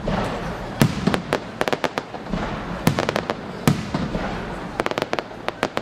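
Aerial fireworks exploding in quick succession: a dense run of sharp cracks and bangs over a continuous rumble, with a few heavier booms standing out about a second in, at three seconds and near four seconds.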